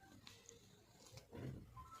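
Faint mouth sounds of someone eating black forest pastry quickly: chewing, smacking and small clicks, with one louder mouthful noise about a second and a half in.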